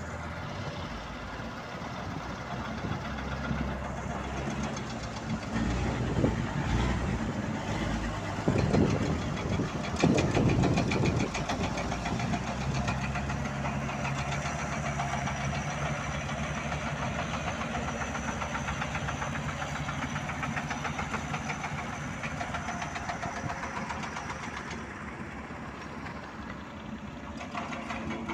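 Truck engine running steadily, louder for a few seconds around the middle.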